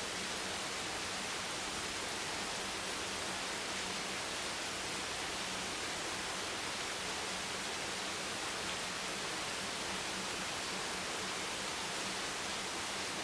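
Steady rain hiss, an even and unchanging wash of noise with no single drops or other events standing out.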